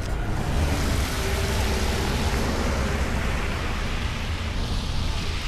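A vehicle passing on a wet road, its tyres hissing. The hiss swells just after the start and fades out near the end, over a steady low rumble.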